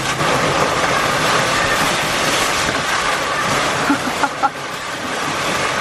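Heavy tropical rain pouring down steadily, a dense even hiss.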